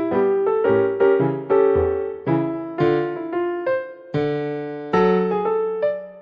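Background piano music: a gentle melody of struck notes, each decaying, played at a steady pace.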